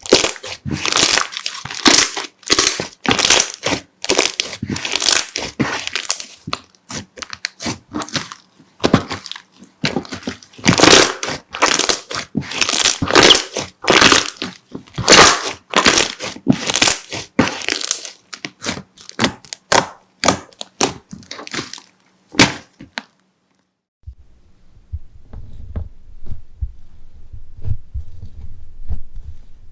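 Crunchy slime being squeezed and pressed, giving dense runs of crackling and popping clicks. The crackling stops about 23 seconds in, and after a brief silence it gives way to a faint run of soft, low thumps.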